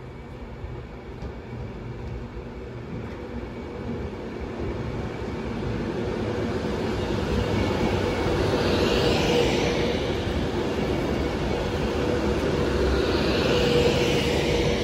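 A train approaching on the track, its rumble growing steadily louder over about eight seconds and then staying loud. A steady hum runs underneath, and a hiss swells twice.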